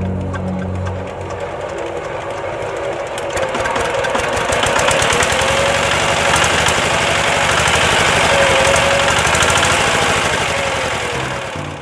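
Single-cylinder diesel engine of a two-wheel walking tractor running with a fast knocking beat, growing louder toward the middle and easing off near the end.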